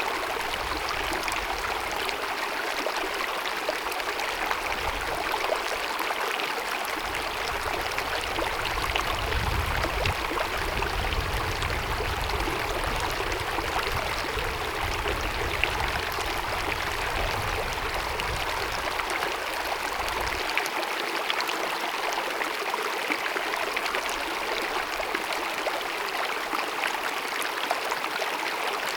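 Small mountain meadow stream babbling and cascading over rocks, a steady, even rush of water.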